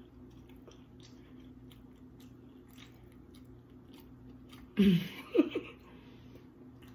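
A person chewing a mouthful of hamburger with the mouth closed, soft wet mouth clicks throughout. About five seconds in, two short voiced hums break in.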